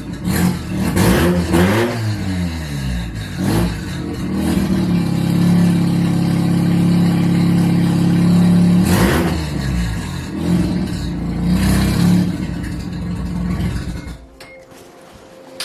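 Mazda RX-7 FD3S's 13B twin-rotor rotary engine, running on a big single turbo with no exhaust, is blipped in several short revs, then held at a steady speed for a few seconds, then revved again. It shuts off near the end.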